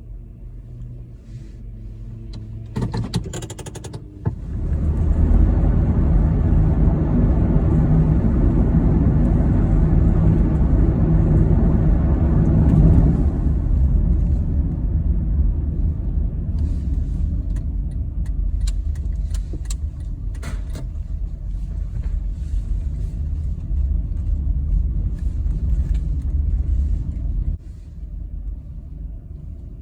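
Steady low rumble of a car on the move, growing louder and fuller for several seconds about a fifth of the way in, with scattered clicks and rattles in the second half, then dropping off shortly before the end.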